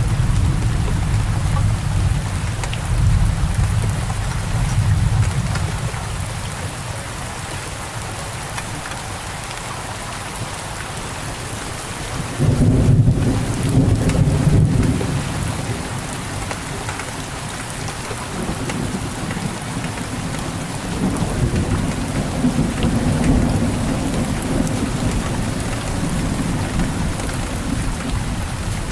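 Steady rain with rolling thunder. A low rumble fades over the first few seconds, a louder roll breaks in suddenly about twelve seconds in and dies away, and another long rumble builds from about twenty-one seconds.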